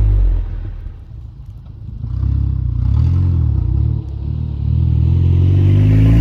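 Turbocharged four-cylinder engine of a 2011 VW Golf GTI with a K04 turbo, heard through a 3-inch Milltek exhaust: the revs fall away and the note drops off for about a second and a half, then the engine picks up again with a wavering note, dips briefly, and climbs in pitch toward the end.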